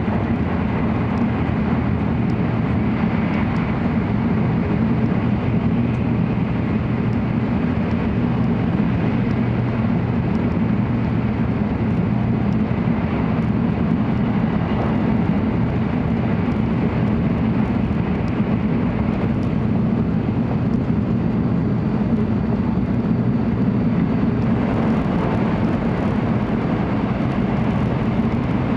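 Steady low running noise of an N700 series Shinkansen, heard inside its passenger cabin.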